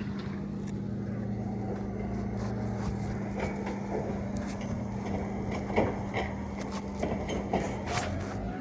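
Steady low motor hum, with scattered light clicks and scrapes over it.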